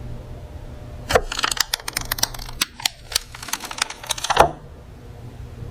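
A quick, irregular series of sharp mechanical clicks and taps, bunched between about one and four and a half seconds in, over a steady low hum.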